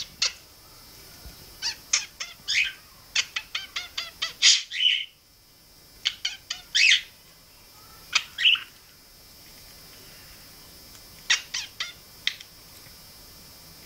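Budgerigar making short, sharp chirps and clicks in irregular bursts. About three seconds in comes a quick run of clicks that ends in a longer squawk, and later groups are separated by quiet pauses.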